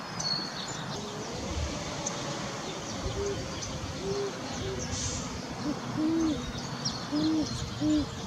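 A male and a female great horned owl hooting to each other in a duet. Short, low hoots start about three seconds in, with deeper and slightly higher hoots alternating, while small birds chirp faintly.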